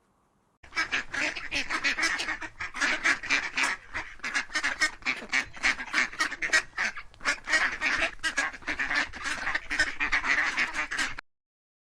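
A flock of farmyard waterfowl calling, with many rapid, overlapping quacks and honks. It starts about half a second in and cuts off suddenly near the end.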